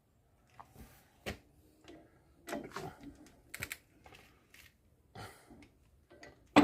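Hand tools clicking and knocking irregularly as they are handled during brake work, with a short cluster of clicks in the middle.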